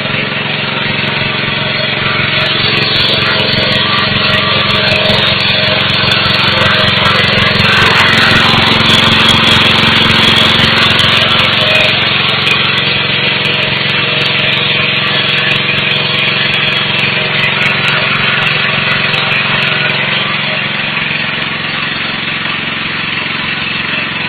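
Vertical pellet mill running steadily: a motor's steady hum with the noise of the press over it, growing louder over the first ten seconds or so and easing a little near the end.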